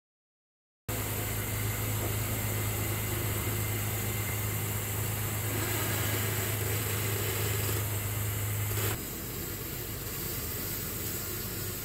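Honda Ridgeline's V6 engine running at low speed while the truck backs up pushing a hitch-mounted wooden snow plow through light snow: a steady low hum over a hiss. About nine seconds in the hum drops away and the sound turns quieter.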